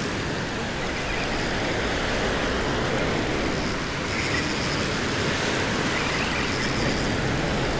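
Steady rush of wind and breaking surf, an even noise with no distinct events.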